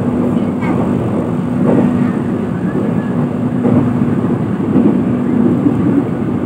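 Passenger train running at speed, heard from inside the carriage: a loud, steady rumble with a constant low hum underneath.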